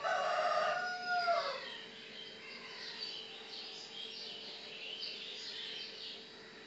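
Bird calls: one long call lasting about a second and a half, which holds a steady pitch and drops away at the end, then a run of quieter high chirps.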